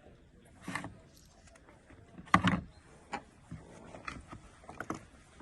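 Scattered knocks and clicks of hard objects being handled, with one loud knock about two and a half seconds in.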